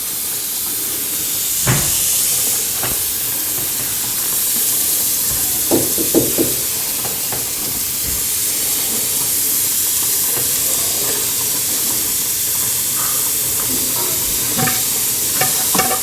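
Jensen slide-valve model steam engine running on live steam for a test run: a steady hiss of steam, with a few brief knocks about 2 s and 6 s in and again near the end.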